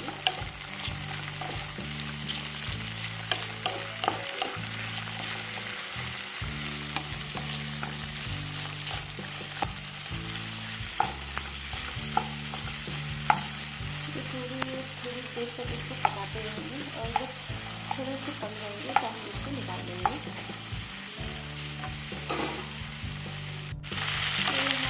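Moringa drumstick pods and potato pieces sizzling as they fry in hot oil in a pan, with a spatula stirring them and clicking against the pan every second or so.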